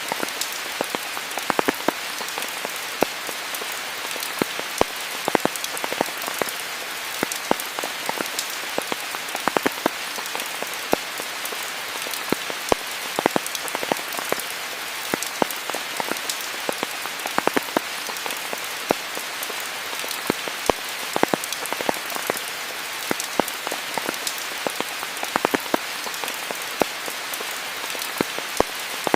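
Steady rain falling in a rainforest: an even hiss with many close, sharp drops striking leaves and surfaces.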